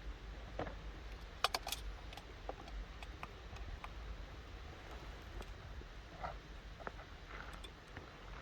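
Wood campfire crackling: irregular sharp pops and snaps, with a quick cluster of louder pops about one and a half seconds in.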